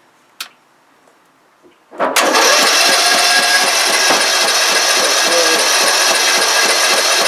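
Riding lawnmower's small single-cylinder engine, fully choked, turning over on the key: a click, then about two seconds in the engine sound starts abruptly and goes on loudly and steadily with a rapid pulsing.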